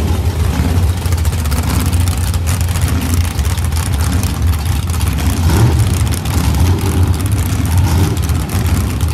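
Drag-racing car engines running near the start line: a loud, steady, deep rumble with no sharp revving.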